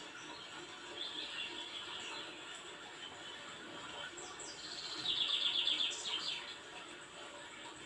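A small bird chirping, with a fast trill of repeated high notes about five seconds in, over a faint steady hiss.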